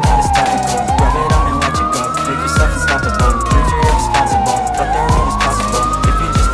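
A wailing siren tone that sweeps slowly up and down, each rise and fall taking about four seconds. It plays over a music beat with regular drum hits and heavy bass.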